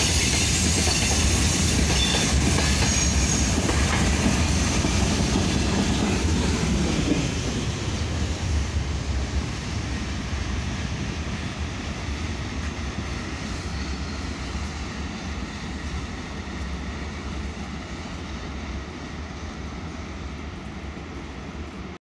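Train wheels rolling and clattering along the rails, heard from inside a moving carriage, growing gradually quieter from about seven seconds in.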